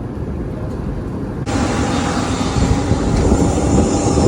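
Passenger jet aircraft noise: a low rumble that changes abruptly about a second and a half in to a louder steady hiss with a thin steady whine over it.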